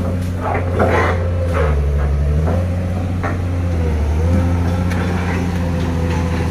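A heavy truck's diesel engine running under load. Its low drone drops in pitch twice, about two and four seconds in, as it lugs, with scattered knocks and rattles over it.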